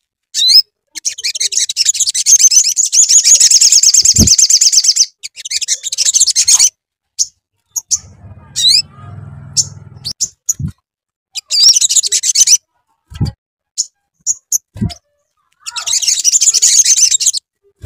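Spiderhunter (sogok ontong) song: loud bursts of very fast, high-pitched chittering trills lasting a few seconds each, with single sharp chip notes between them. A few short low thumps come in between.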